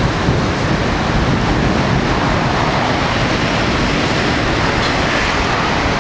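Storm wind rushing steadily across the microphone.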